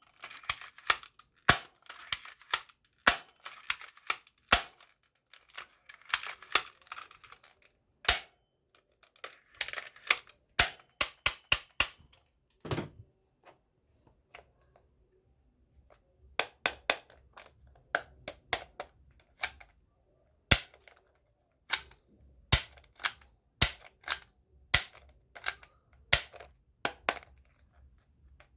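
Plastic toy guns being worked by hand: a long run of sharp, irregular clicks and snaps from their actions, some in quick clusters, with a sparser spell about halfway through.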